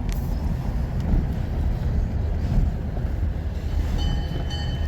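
Diesel locomotive running light, a steady low rumble. Its bell starts ringing about four seconds in.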